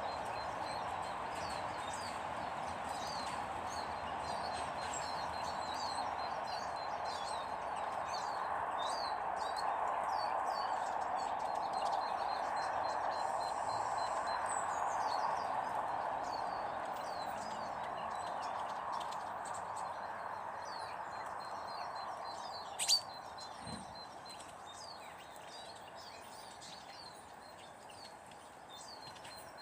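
Small garden birds chirping and twittering over a steady background noise, with one sharp click about two-thirds of the way through.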